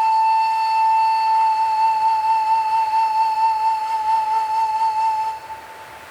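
Music: a flute-like wind instrument holds one long note with a slight vibrato, fading out near the end, over a faint steady windy hiss.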